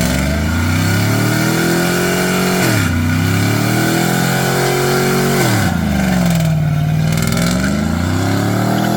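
Chevrolet Silverado's LS-family V8 revving hard: the pitch climbs and holds high, drops sharply about three seconds in and again near six seconds, then climbs back each time.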